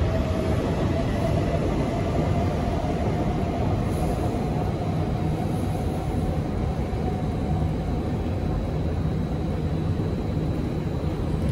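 SMRT C751B electric train (Kawasaki & Nippon Sharyo) pulling away along an elevated viaduct: a steady motor whine that fades out about eight seconds in, over a constant low rumble.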